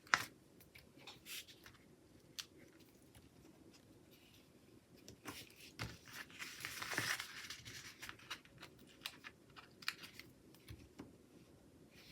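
Planner stickers being peeled off a sticker sheet and pressed onto paper: faint scattered taps and paper rustles, with a longer peeling rustle from about six to seven and a half seconds in.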